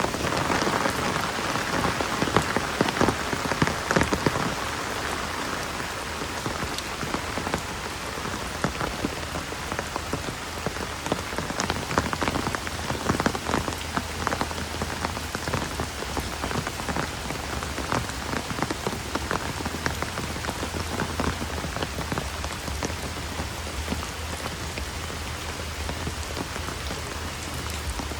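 Steady rain falling, with many separate drops hitting close by; it is a little heavier in the first few seconds.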